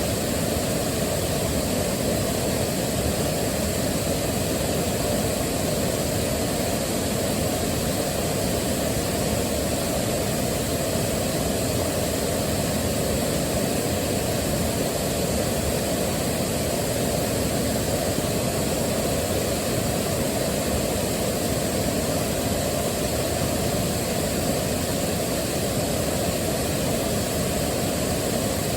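Waterfall: a steady, unbroken rush of falling water, deep and even throughout.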